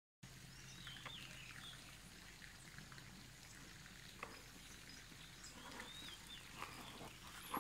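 Faint outdoor ambience with a few distant bird chirps, short up-and-down calls about a second in and again about six seconds in, and a few light clicks.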